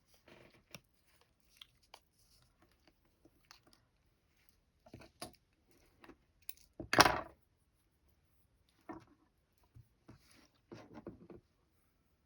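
Hand-embroidery handling sounds: scattered soft clicks and rustles of needle, thread and fabric, with a louder swish lasting about half a second around seven seconds in and a short cluster of rustles near the end.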